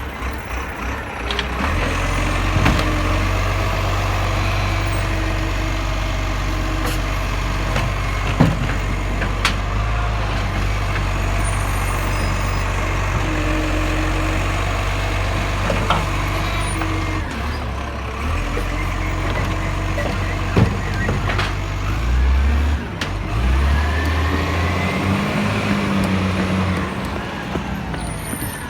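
Garbage truck's diesel engine running with its revs held up for long stretches and stepping down and up again, with a few sharp knocks about eight, nine and twenty seconds in.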